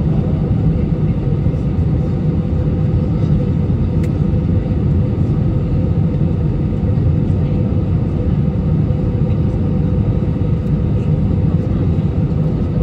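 Steady airliner cabin noise: a low rumble of engines and airflow with a constant hum, unbroken and even.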